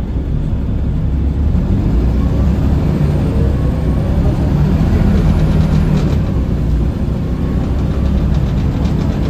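Scania L94UB bus's 9-litre six-cylinder diesel engine running steadily under way, with a faint rising whine near the middle.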